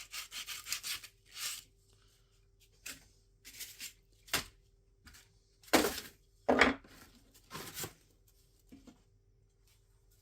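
Wooden parts being handled and rubbed together in irregular short strokes, with a few louder knocks about halfway through.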